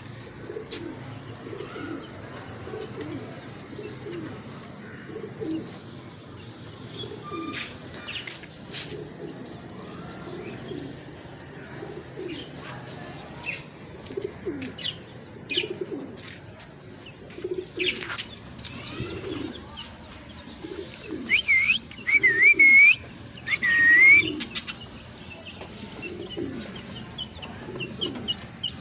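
Domestic pigeons cooing over and over. About three-quarters of the way through, another bird gives a few loud, sharp chirps. Occasional wing claps are heard.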